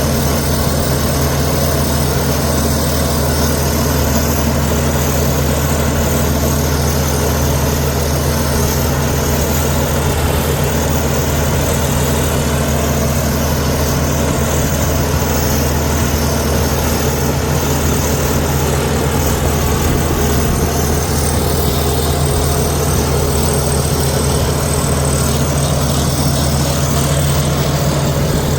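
Komatsu D61EX bulldozer's diesel engine running at a steady speed, a constant low hum that neither rises nor falls.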